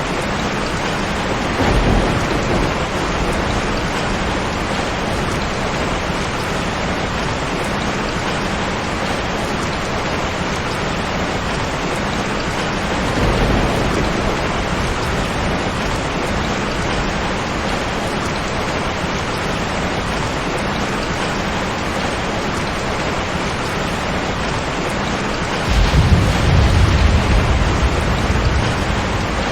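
Steady heavy rain with thunder rumbling three times: briefly about two seconds in, again midway, and a longer, louder rumble near the end.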